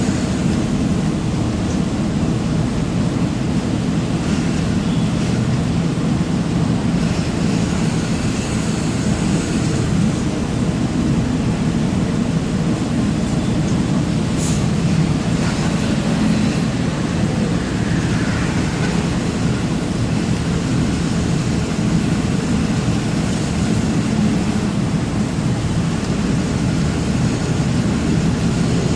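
Steady low rumble of a truck's engine and road noise while driving, with a brief high squeak about halfway through.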